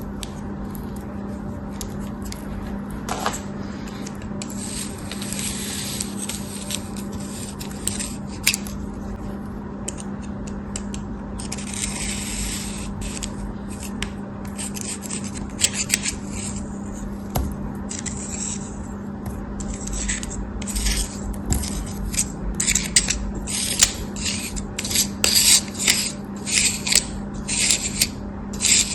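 A blade cutting and scraping through a soft, crumbly material, in a series of hissy strokes. The strokes are longer and further apart at first and come short and quick near the end.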